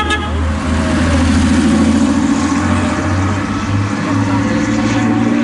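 A historic rally car's engine running and pulling away at low speed, its pitch and level swelling about two seconds in. A short horn toot sounds at the very start.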